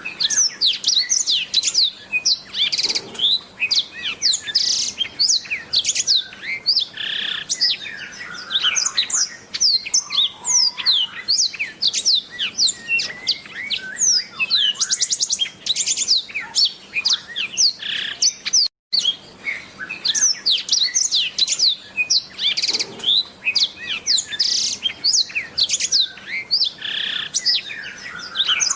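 Blackthroat (black-throated canary) singing a long, fast, continuous song of rapid high chirps and trills, with one split-second break about two-thirds of the way through.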